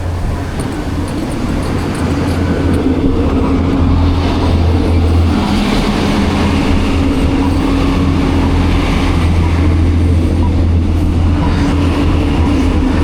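Steady low vehicle rumble with a droning hum, growing louder over the first few seconds and then holding.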